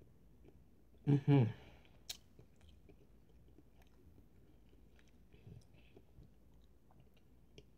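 A person chewing a mouthful of cheese, with faint, scattered wet mouth clicks and a sharp click about two seconds in. About a second in there is a short vocal sound that falls in pitch, the loudest thing here.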